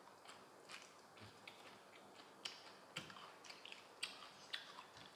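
Faint, irregular small clicks and smacks of eating: mouth sounds of chewing and fingers handling sticky braised chicken feet.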